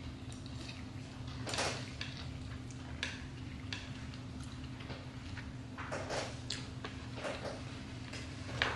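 Close-miked chewing and mouth noises from people eating sushi, with many small sharp clicks from chopsticks and a few louder mouth noises: one about a second and a half in, more near the end. A steady low hum runs underneath.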